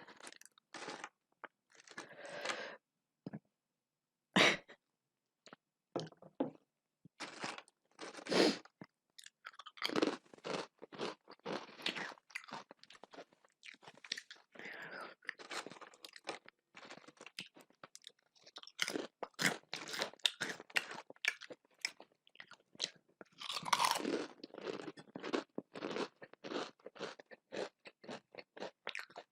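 A person eating close to the microphone: many short, irregular crunchy bites and chewing, coming thicker in the second half.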